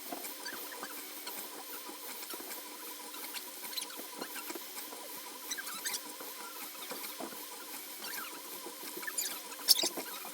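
3D printer running: its stepper motors hold steady whines under quick squeaky chirps that sound like mice as the print head moves, with a sharper click near the end.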